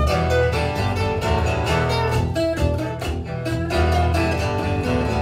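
A live band playing an instrumental passage with no singing: guitar with bowed strings over a steady bass line.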